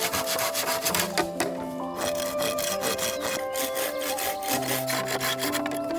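Hand saw cutting through a bamboo stalk with repeated back-and-forth strokes.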